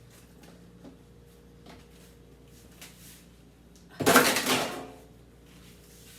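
A loud sliding, rattling clatter lasting about a second, about four seconds in, from things being moved or a drawer or container being handled during kitchen clean-up, with a few soft clicks before it over a faint steady hum.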